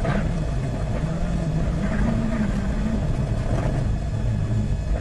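WRC rally car engine running hard at speed, its pitch climbing and dropping repeatedly as it accelerates and backs off.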